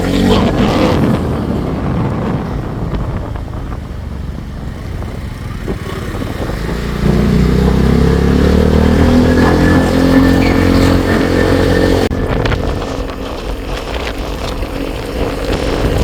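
Vehicle engine driving off, growing louder and rising in pitch from about seven seconds in, then dropping abruptly about twelve seconds in.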